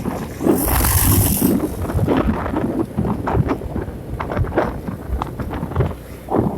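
Wind buffeting the microphone while travelling on a moving vehicle, an uneven low rumble full of gusty thumps, with a short burst of hiss about a second in.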